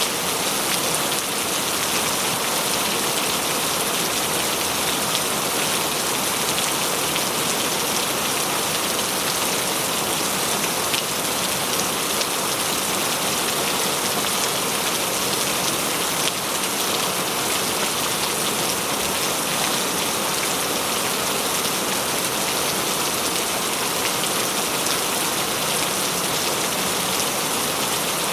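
Steady, heavy rain falling on a surface, a dense even hiss of drops with no let-up.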